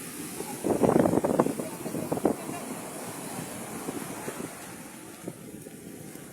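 Wind buffeting the microphone over the rush of rough sea, loudest in a gust in the first two seconds and then a steady rushing.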